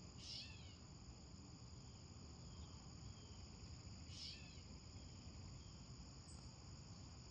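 Faint nature soundscape: a steady high-pitched insect chorus, like crickets, with two brief chirping calls about four seconds apart.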